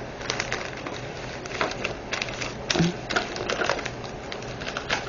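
Irregular light clicks and rustles of small plastic items being handled on a tabletop, with a few sharper clicks now and then.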